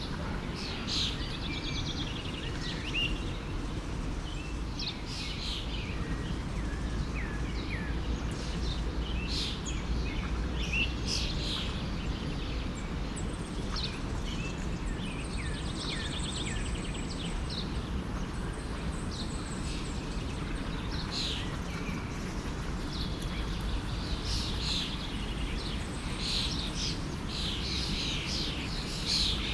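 Many small birds chirping and trilling over the steady low rush of a forest stream.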